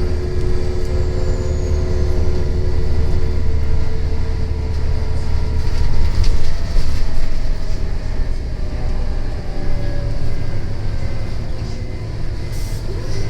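Scania L94UB bus with a compressed-natural-gas engine under way, heard from inside the cabin: a steady low engine drone with a thin whine that fades a few seconds in, and scattered rattles and clicks.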